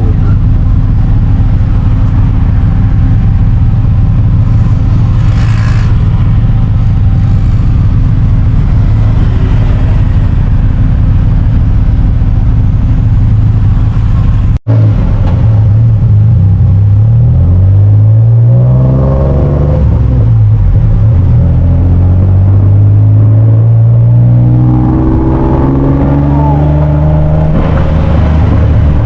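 Car engine running steadily, then after a short break accelerating twice, its pitch rising with each pull.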